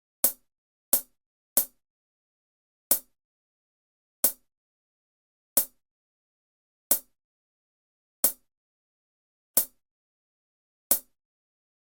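Count-in clicks at the head of a drum-and-bass backing track: ten sharp, evenly timed clicks on silence, three quick ones followed by seven slower ones about a second and a third apart, marking the tempo before the drums come in.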